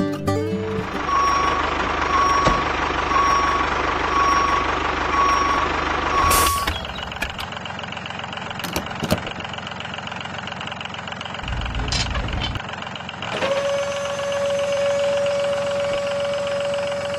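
Reversing beeper sounding about once a second over the steady noise of a running vehicle. The beeping stops about six seconds in, leaving the running noise with a few clicks. Near the end a steady whining tone starts.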